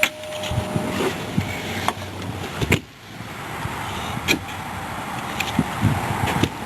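A few scattered knocks and clicks over a steady background hiss, the sharpest about two and a half seconds in, with no engine running.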